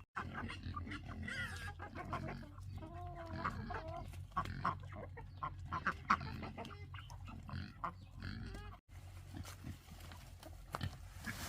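Farmyard animals calling: chickens clucking with pigs grunting, many short calls with a few wavering higher notes.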